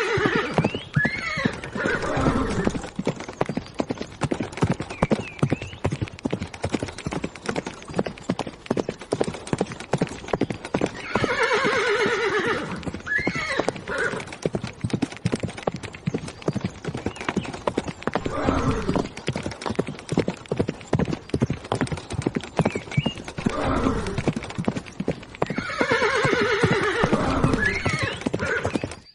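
A horse clip-clopping at a brisk pace, the hoofbeats coming in a rapid, continuous clatter. It whinnies three times, each a wavering call that falls in pitch, about 12 to 14 seconds apart.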